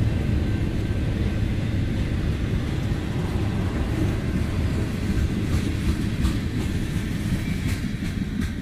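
Union Pacific train rolling slowly past, a steady low rumble with some sharp clicks in the second half.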